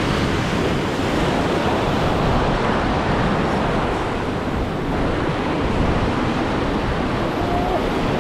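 Steady rush of surf washing over a shallow reef, mixed with wind on the microphone.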